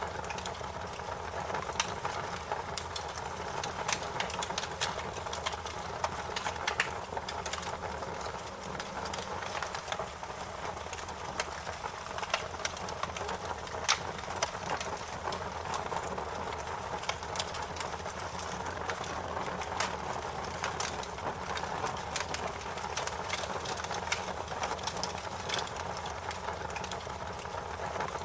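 Wood fire crackling: a steady hiss with frequent sharp pops and snaps at irregular intervals.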